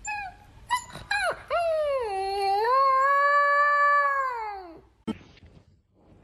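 A dog whining and howling: a few short sliding whimpers, then one long howl of about three seconds that falls away at the end. A single click follows.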